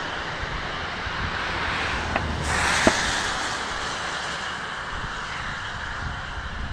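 Steady roadside traffic noise, with a passing vehicle swelling up about two and a half seconds in and slowly fading away; two faint short clicks come as it arrives.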